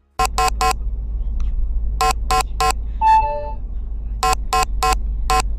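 A car horn honked in quick groups of short blasts over the low rumble of a moving car, with a separate, longer horn tone about three seconds in.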